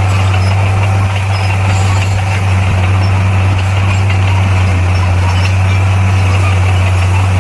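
Diesel engine of heavy earthmoving equipment running steadily, with a deep, even drone that holds the same pitch throughout.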